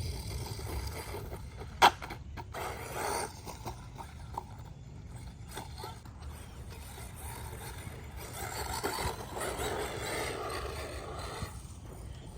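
Brushless 1/16-scale RC truck driving over rough ground, a rushing mix of tyres and drivetrain. There is one sharp knock about two seconds in, then a short run, and a longer run in the second half.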